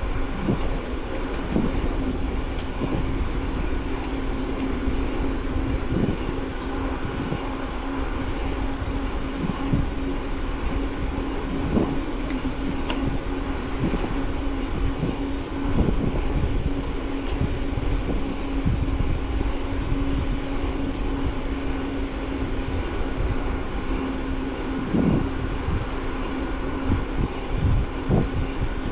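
Riding noise of an e-mountain bike picked up by a bike-mounted camera: steady tyre rumble with a constant hum under it, and frequent short rattles and knocks as the bike runs over bumps.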